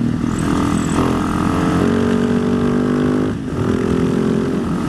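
Husaberg supermoto's single-cylinder engine running under way through bends, with wind noise. Its pitch eases down over a couple of seconds, dips briefly about three and a half seconds in, then holds steady again.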